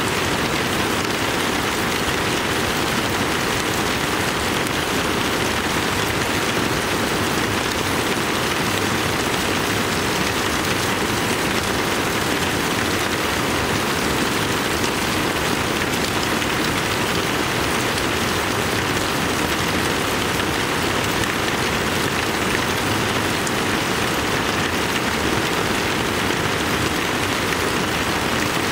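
Heavy rain falling steadily on broad banana leaves and the yard, with water streaming off the roof edge; an even, unbroken downpour.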